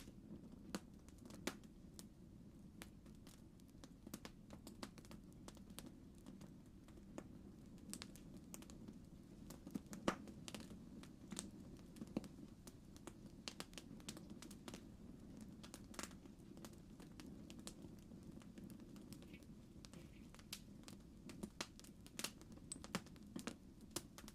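Campfire crackling: irregular sharp snaps and pops over a low steady rumble of burning wood.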